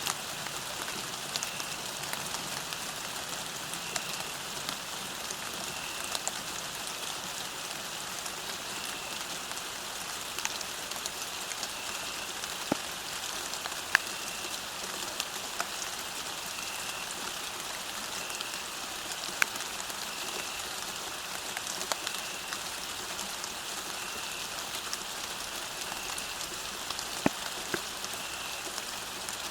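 Steady rain falling on a surface, with individual drops ticking sharply here and there. A faint short high note repeats about every second or so through it.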